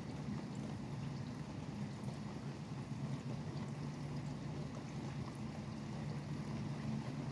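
Steady rain falling, with faint scattered drop ticks over a continuous low rumble of highway traffic.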